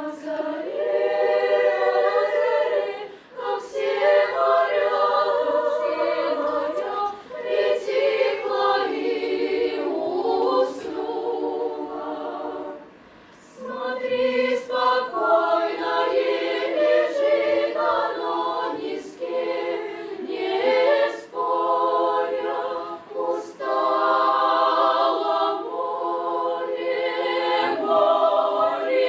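Choir singing a cappella in long sustained phrases, with a brief break about 13 seconds in.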